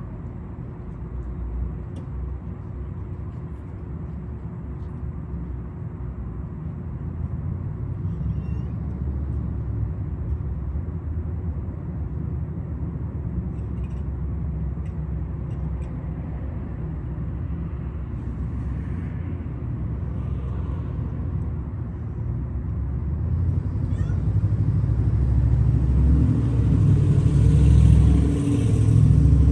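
Low, steady rumble of a running vehicle engine, swelling louder near the end, with a few faint cat meows.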